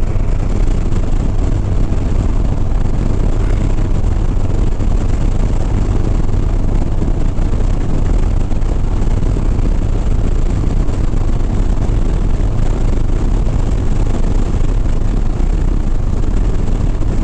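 Harley-Davidson Sport Glide's V-twin engine running steadily at highway speed, mixed with heavy wind and road noise.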